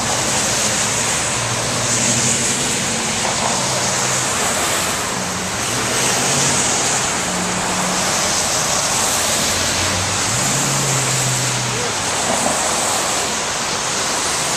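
Steady road-traffic noise: a constant rush with low engine hums that shift in pitch now and then.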